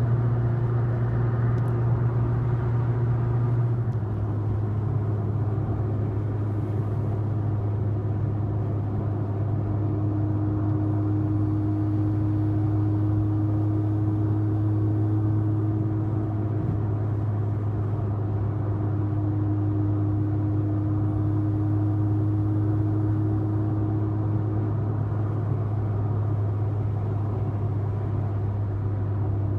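Mini Cooper S R53's supercharged 1.6-litre four-cylinder engine cruising through an aftermarket eBay exhaust: a steady low drone that drops slightly in pitch about four seconds in, then holds even.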